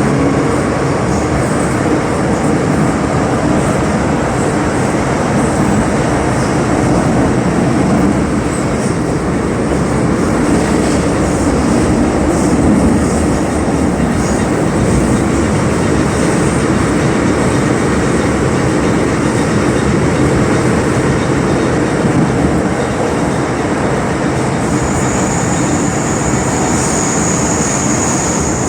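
Steady running noise inside an MTR M-Train metro car travelling between stations: a continuous rumble of wheels on rail with a light clatter. About 25 seconds in, a thin high-pitched whine comes in and keeps going.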